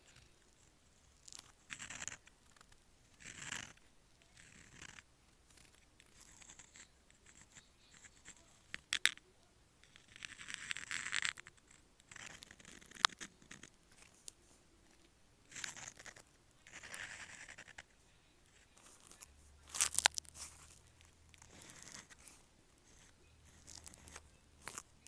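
Dip pen's metal nib scratching across paper in short, irregular strokes with pauses between them, and a few sharp clicks.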